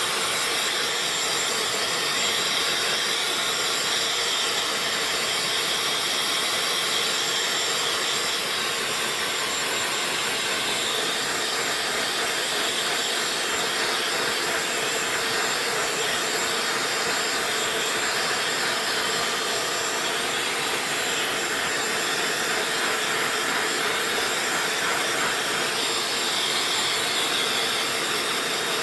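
Dyson hair dryer running steadily, a continuous airy rush of blown air with a faint high whine from its fast motor.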